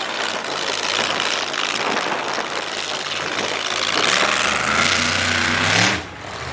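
Monster truck engine running amid a steady noisy din. About four seconds in the engine note comes up clearly with a rising whine, then dips away briefly near the end.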